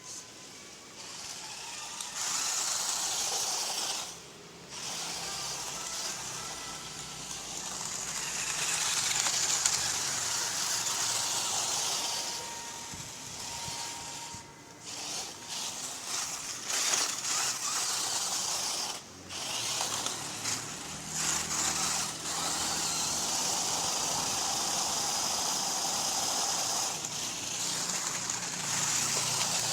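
Radio-controlled rock crawler's stock brushed electric motor and gearbox, freshly tuned, whirring as it drives, cutting out briefly several times as the throttle is let off.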